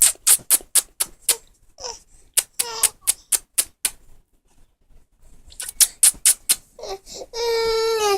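Repeated kissing noises: quick, sharp lip smacks in runs of several at about four a second, with pauses between the runs. Near the end comes a held, voiced 'ooh'-like sound.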